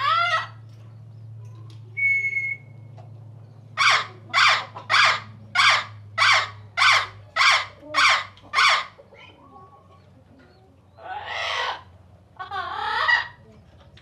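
A bird calling: a short call, a brief thin whistle, then a run of about nine loud, evenly spaced calls, roughly two a second, followed by two longer harsh calls near the end.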